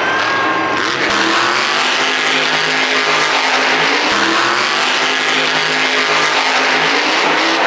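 Monster truck's supercharged V8 revving hard, its pitch climbing and dropping several times over a loud, continuous noisy din.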